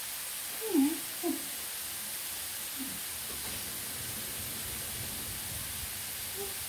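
Potato chips frying in oil in a frying pan: a steady sizzling hiss. About a second in come two short vocal sounds.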